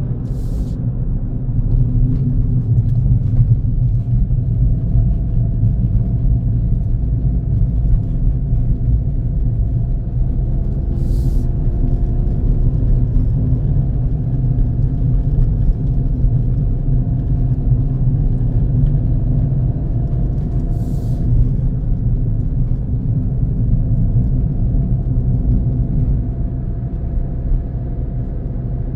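Car driving along at steady speed: a constant low rumble of engine and road noise. Three brief faint hisses come about ten seconds apart.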